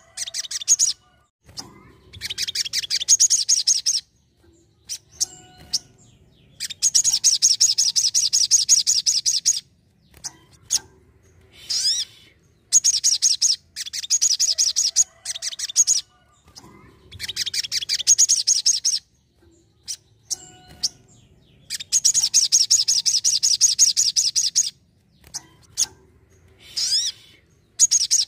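A sogon, a sunbird, singing: repeated bouts of rapid, high chattering trills, each two to three seconds long, with short pauses between.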